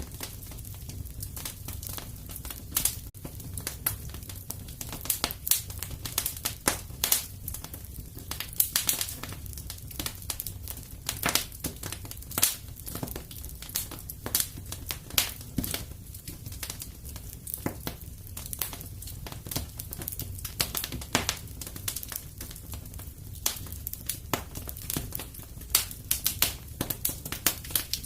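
Wood fire crackling in a fireplace: irregular pops and snaps, several a second, over a steady low rumble.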